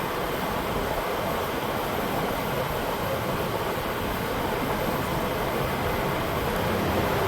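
Steady blowing noise of a shop fan, an even whoosh with no breaks.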